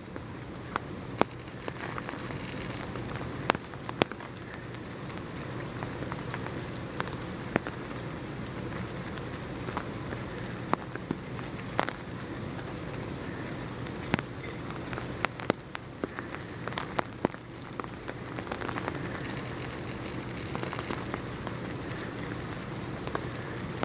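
Steady rain falling, with many individual drops landing as sharp, irregular taps on a nearby surface.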